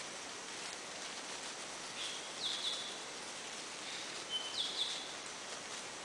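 Steady tropical forest hiss, with a bird calling twice about two seconds apart. Each call is a short flat whistle followed by two quick rising notes.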